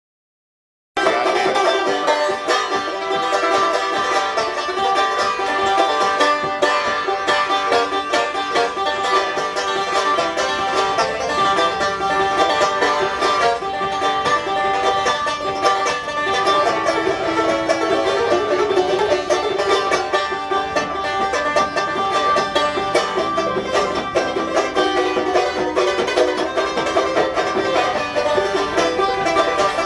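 Banjo being picked, a quick, continuous run of plucked notes that starts abruptly about a second in.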